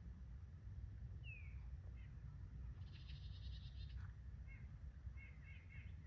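Small songbirds calling: a down-slurred call about a second in, a harsh buzzy chatter around three seconds in, then a quick run of short chips near the end, the alarm calls of birds mobbing a snake near their nest. A steady low rumble runs underneath.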